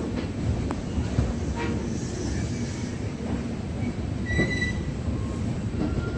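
Passenger train rolling slowly over the rails, heard from inside the coach at the window: a steady low rumble of wheels on track, with a short high wheel squeal about four and a half seconds in.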